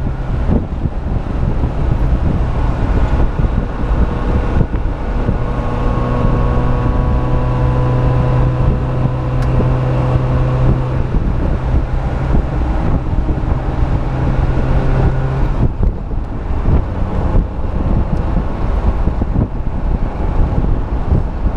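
Suzuki SJ413's four-cylinder engine running steadily at cruising speed, with wind and tyre noise. The engine note rises slightly in the middle and then drops away about sixteen seconds in.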